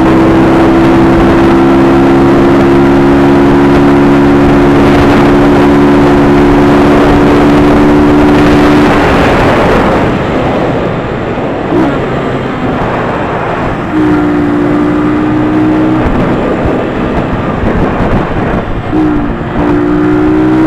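Sport motorcycle engine running at a steady cruising speed, with wind and road noise rushing over the microphone. The engine note drops away about nine seconds in, leaving mostly wind, then returns steady for a couple of seconds and again near the end.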